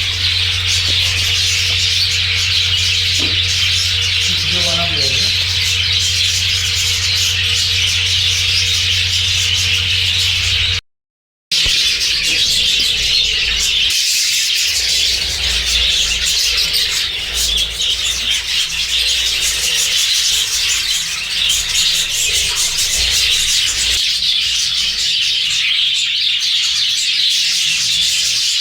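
A flock of budgerigars chattering and chirping continuously, dense and steady, with a brief total dropout about eleven seconds in.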